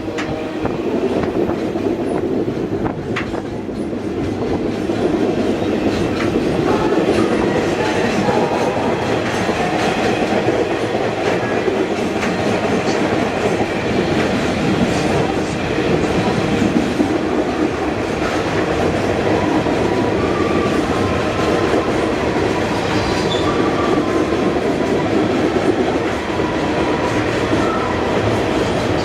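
Canadian Pacific passenger train rolling along the track, heard from on board: a steady rumble of wheels on the rails, with faint thin tones coming in during the second half.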